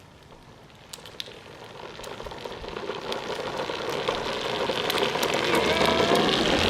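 Tonka toy truck rolling down a hill with a rider aboard, its wheels giving a rough, even rumble on the ground that grows steadily louder as it gathers speed. A couple of faint clicks come about a second in, just before it starts.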